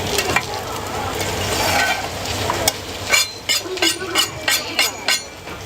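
Food sizzling on a hot cooking surface, stirred with a metal utensil. About three seconds in, quick sharp metal taps start, about four a second.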